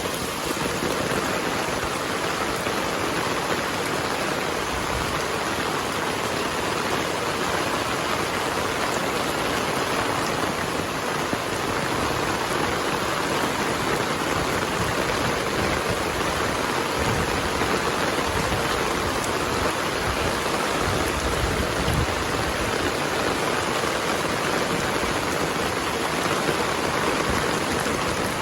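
Heavy rain falling steadily, a dense even hiss, with a couple of brief low rumbles.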